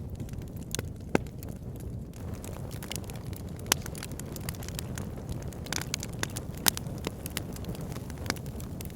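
Wood fire in a log burner, crackling and popping over a steady low rumble of flames, with sharper pops about a third and two thirds of the way through.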